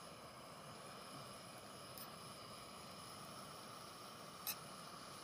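Faint steady hiss of king prawns frying in a pot over a camping gas stove, with a fork clicking against the pot twice, about two seconds in and more sharply near the end.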